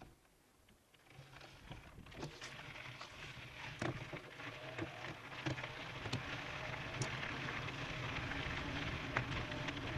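E-bike riding off-road: tyre noise and crunching over gravel, with scattered clicks and knocks, growing steadily louder as the bike picks up speed from almost quiet.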